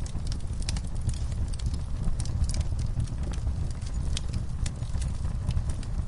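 Wood logs burning in an outdoor fire pit, crackling with irregular sharp pops over a steady low rumble.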